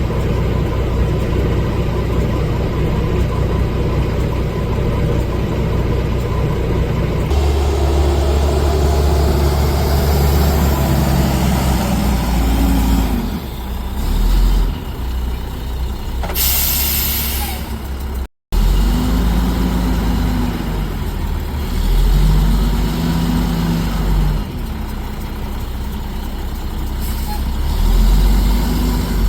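Heavy diesel garbage truck's engine running, revving up and down several times, with a sharp air-brake hiss about two-thirds of the way through and a brief dropout just after it.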